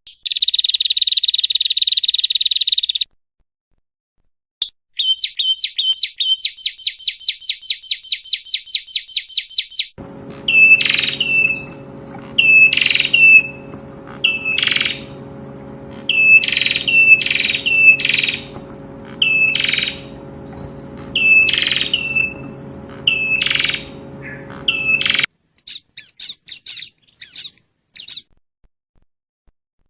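Prinia (prenjak) song in spliced segments with dead silence between them: a dense, high buzzy trill for about three seconds, then a fast run of chirps, then loud sharp chip notes about once a second over a steady low hum, and faint rapid notes near the end.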